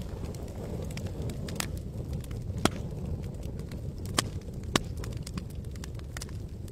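Campfire crackling: irregular sharp pops and snaps over a steady low rumble, with three louder pops in the middle part.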